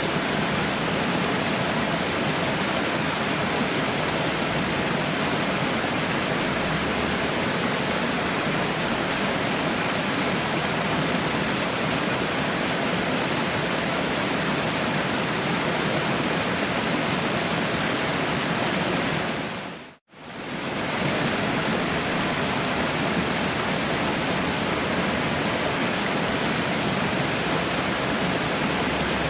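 Waterfall rushing steadily, a dense even hiss of falling water. About twenty seconds in it fades briefly to silence and comes straight back.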